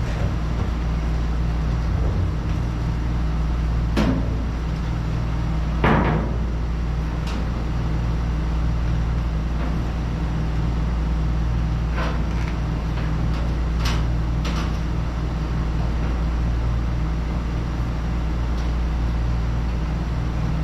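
Scattered knocks and clatters of parts and hardware being handled, the loudest about six seconds in, over a steady low shop hum.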